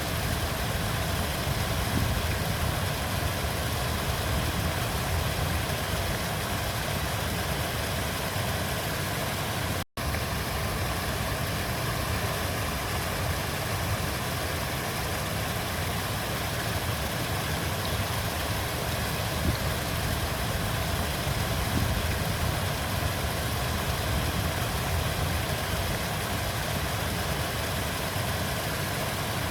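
River water flowing, a steady rushing with most of its weight in a low rumble. It cuts out for a split second about ten seconds in.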